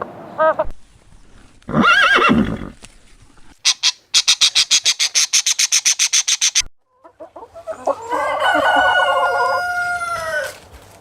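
Chicken sounds. A rooster crows in one long held call that falls at the end, near the end. Before it come a short pitched call and a fast run of high, sharp clicks.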